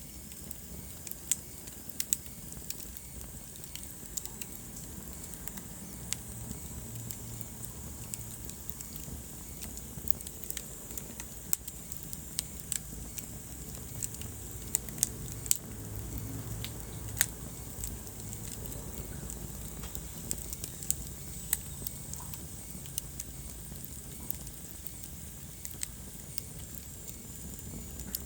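Wood fire burning in a fireplace: a steady low rumble of flames with irregular sharp crackles and pops, a cluster of louder pops about halfway through.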